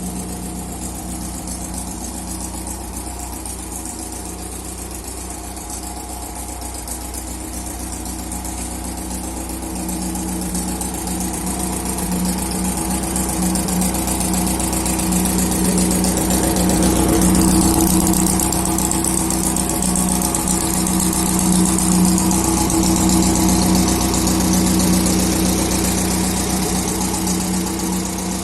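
Engine of an off-road cage buggy running steadily, growing gradually louder through the middle, with a steady hiss over it.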